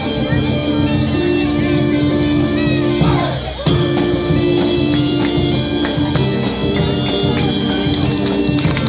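Live bagpipe and percussion band playing: bagpipes sound a melody over a steady drone, with drums keeping the beat. About three seconds in, the music dips briefly with a falling pitch slide, then carries on.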